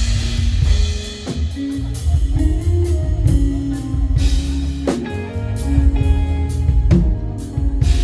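Live band playing praise music: drum kit with several cymbal crashes over a steady bass line and sustained chords.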